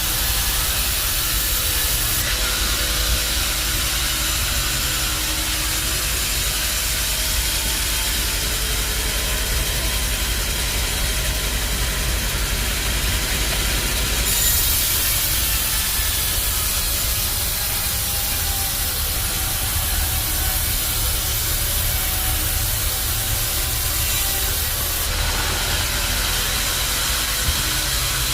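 Bandsaw sawmill machinery running steadily: a continuous hiss over a low rumble. The hiss changes in level about two seconds in, around halfway, and near the end.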